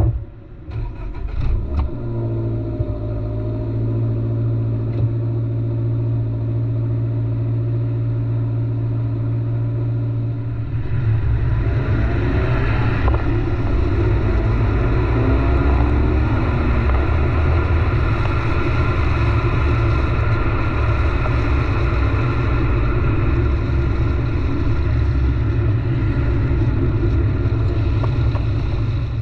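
Stock exhaust of a 2023 Subaru BRZ with a 2.4-litre flat-four, idling steadily at first. About eleven seconds in the revs rise, and it keeps running louder and harder, with more noise mixed in, to the end.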